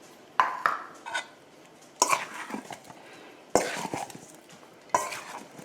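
A utensil knocking and scraping against a bowl as chicken pieces are tossed in flour to coat them, in irregular clattering strokes about once a second.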